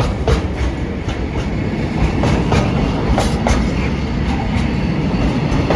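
Freight train hauled by a Class 66 diesel rolling past, a steady low rumble with wagon wheels clicking over the rail joints at uneven intervals.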